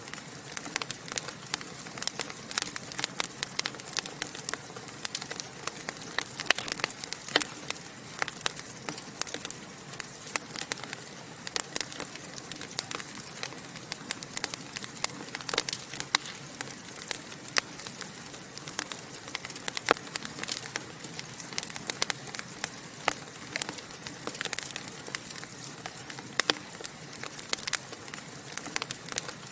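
Fire in a fireplace crackling steadily, with dense, irregular sharp pops and snaps over a soft hiss.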